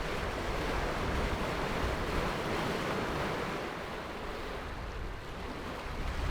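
Steady rush of sea water and wind aboard a sailing catamaran under way, a continuous even noise with no distinct events.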